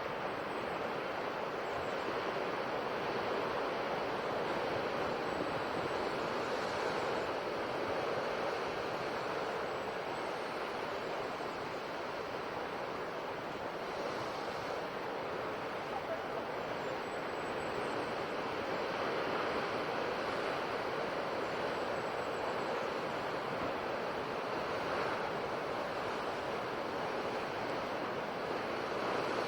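Ocean waves breaking on a shore: a continuous surf wash that swells and eases gently.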